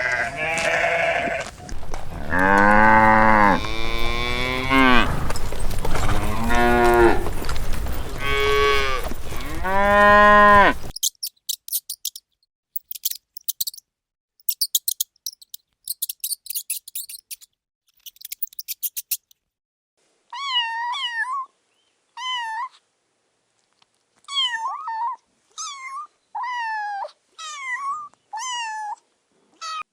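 A series of animal calls in three runs: loud, long, low calls for the first ten seconds or so, then a spell of quick, high chirps, then about eight shorter, higher calls that bend in pitch.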